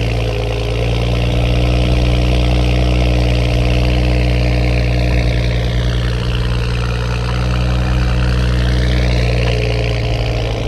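Toyota A90 Supra engine idling steadily through a dual Tomei titanium exhaust.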